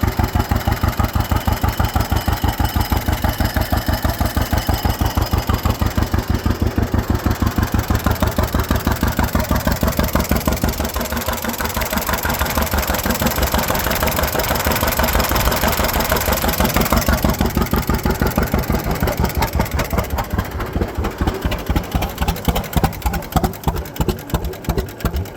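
1954 John Deere 50 Barber-Greene tractor's two-cylinder engine running with an even pulsing beat. The engine speed changes partway through, and near the end the beats come slower and stand apart more distinctly.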